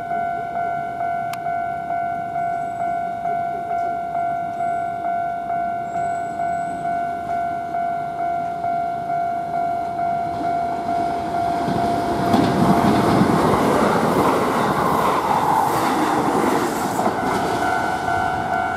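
Japanese level-crossing warning bell ringing steadily in an even two-tone ding, about one and a half strikes a second. A Kintetsu limited express electric train passes through from about 11 to 17 seconds in, its wheels rumbling and clattering over the rail joints and points, then fades as the bell keeps ringing.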